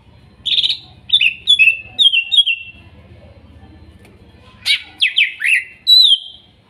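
Cucak ijo (leafbird) singing: two bouts of loud whistled notes. The first is a run of short downslurred phrases, the second a quick series of four steeply falling notes ending in one longer falling whistle.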